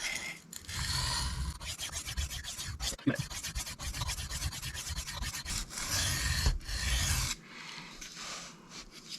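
Steel knife blade stroked rapidly back and forth on a sharpening stone, a quick rasping scrape, while reprofiling: the heel of the edge is being worked to raise a burr. The strokes turn much quieter a little after seven seconds in.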